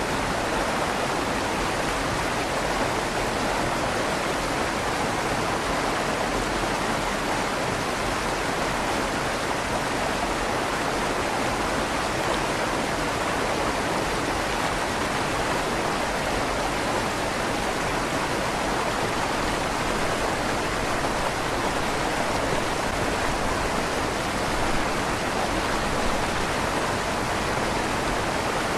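River water flowing steadily through a stone culvert under a bridge, an even rushing with a slight echo off the tunnel walls.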